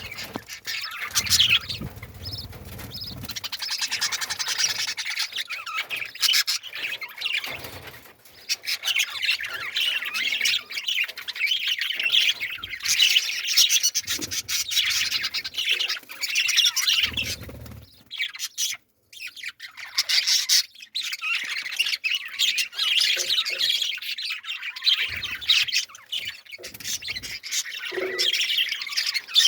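Many small birds chirping and squawking at once in a continuous, busy chatter, with a few low thumps now and then and a brief break about two-thirds of the way through.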